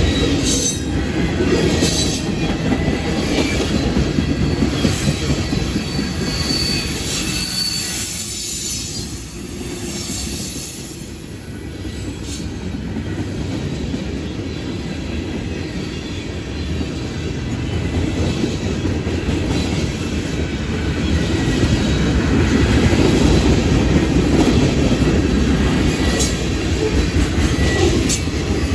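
Freight train rolling past: a steady rumble of cars on the rails with wheel clicks and a thin wheel squeal about six seconds in.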